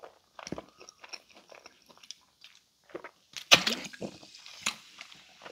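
Close-miked chewing and crunching of a crispy Pizza Hut Melt, with many small wet mouth clicks. A much louder sudden sound comes about three and a half seconds in, and a smaller one about a second later.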